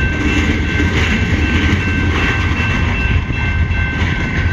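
CN train's cars rolling past, a loud steady rumble with a faint high whine held steady over it.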